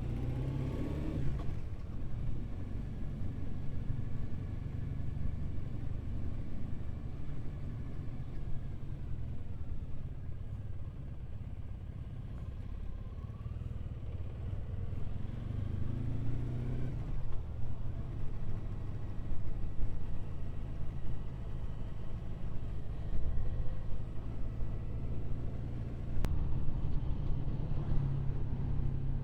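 Triumph Bonneville's parallel-twin engine running while the motorcycle is ridden along the road, under a steady low rumble. The engine note rises briefly near the start and again about halfway through as the bike picks up speed.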